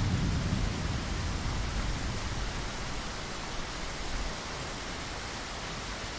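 Steady rainfall, an even hiss, with a low rumble underneath in the first few seconds that fades out about four seconds in.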